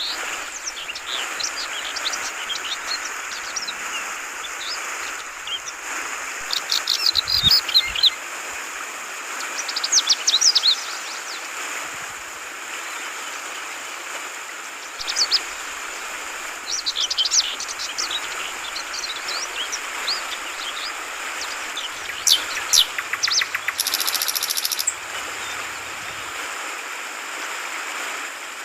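Yellow-vented bulbul (Trucukan) giving repeated bursts of quick, high chirping phrases over the steady gurgle of flowing water. A short high buzz comes about 24 seconds in.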